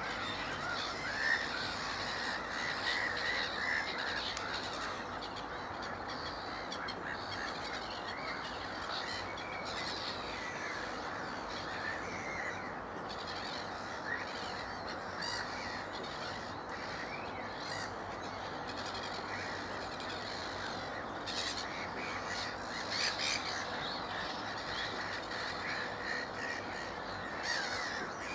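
Black-headed gull colony calling: many harsh, overlapping calls forming a continuous din.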